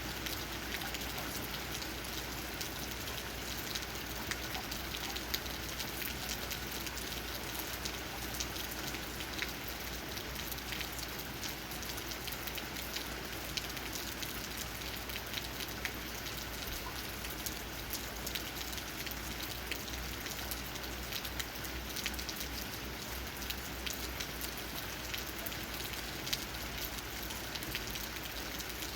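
Steady rain falling, with many separate drops tapping on leaves.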